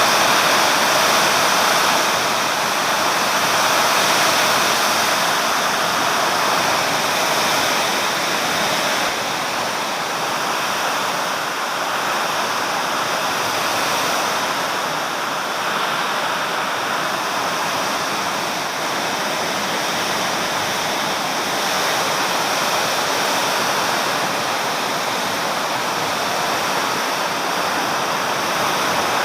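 Heavy summer-storm rain pouring down in a steady, dense hiss.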